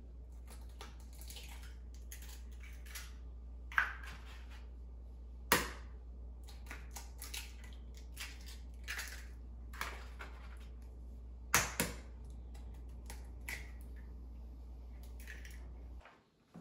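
Eggs being cracked against a bowl: several sharp knocks, with smaller clicks and crunches of shell between them. A steady low hum runs underneath and stops near the end.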